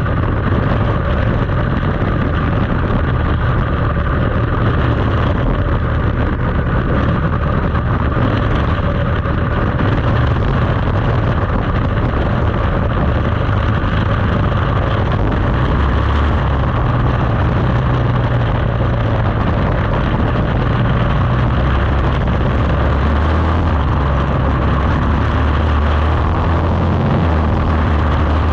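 Quarter midget race car's Briggs & Stratton Animal single-cylinder engine running steadily at racing speed, its pitch rising and falling slightly through the laps.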